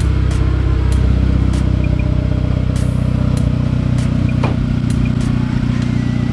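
Turbocharged 2.0 TSI (EA888) four-cylinder of a Mk5 VW Jetta idling steadily as it warms up, heard at the rear of the car through its custom cat-back exhaust.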